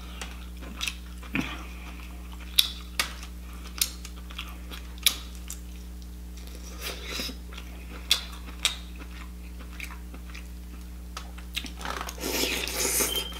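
Close-miked wet chewing of lobster meat, with sharp mouth clicks and smacks every second or so and a louder, longer stretch of chewing near the end.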